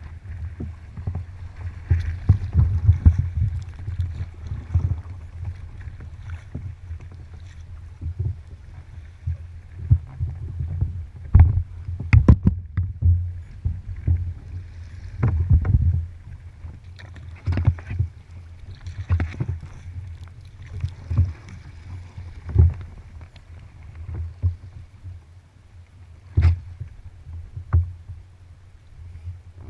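Kayak paddling on open water: irregular paddle splashes and water slapping against the hull, over a steady low rumble.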